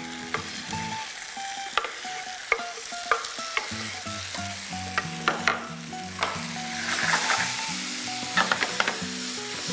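Chopped tomatoes sizzling in a hot pan as they are stirred in, with light spatula clicks against the pan now and then; the sizzling swells about seven seconds in.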